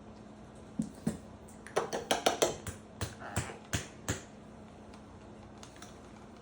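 A utensil clinking and knocking against a container: a quick, irregular run of about a dozen sharp clicks between about one and four seconds in, as mustard is spooned out and scraped off.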